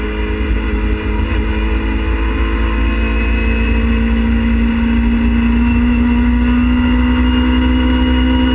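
Racing car engine heard from inside the cockpit under full throttle in fourth gear, revs climbing from about 6,400 to 7,600 rpm so that its pitch rises slowly through the second half, over steady low road rumble.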